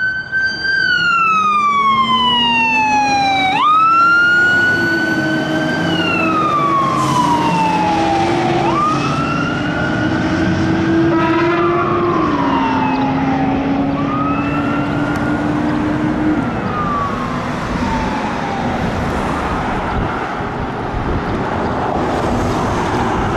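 Fire apparatus siren wailing as the truck responds. Its pitch rises quickly and winds down slowly, over and over, with a lower tone running beneath. It fades away about two-thirds of the way through, leaving steady traffic and engine noise.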